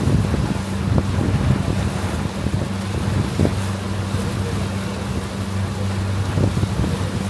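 Sightseeing boat's engine running with a steady low drone, with wind noise on the microphone.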